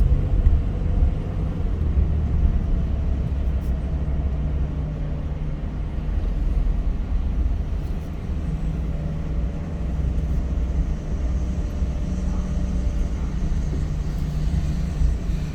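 Car driving along a road: steady low rumble of engine and tyres.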